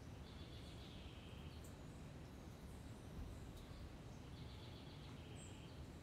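Faint outdoor ambience: a small bird gives a short rapid trill twice, once about a second in and again near the end, with a brief high chirp, over a low steady rumble.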